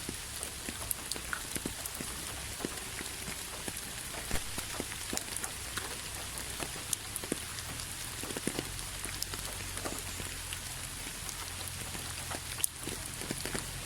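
Steady rainfall: a constant hiss of rain with many separate drops heard as short ticks, one sharper drop near the end.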